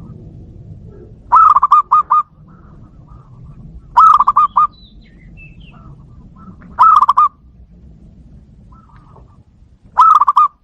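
Zebra dove (perkutut) cooing: four loud phrases, each a quick run of rolling coo notes, repeating about every three seconds, with fainter calls in between.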